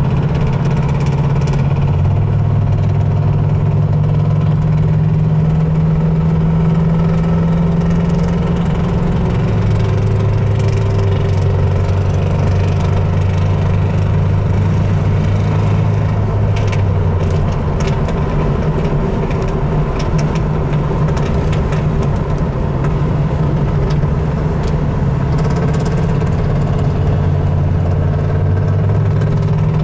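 Car engine heard from inside the cabin, running steadily at low revs while cruising, its note stepping up and down a few times as the throttle changes.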